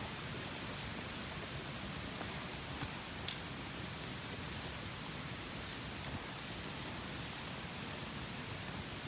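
Open wood fire crackling with a steady hiss, and a sharp pop about three seconds in.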